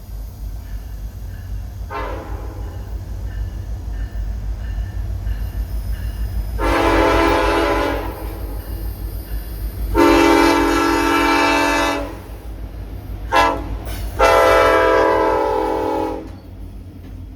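Locomotive horn sounding the grade-crossing signal: two long blasts, a short one, and a final long one, over a steady low rumble of the approaching train.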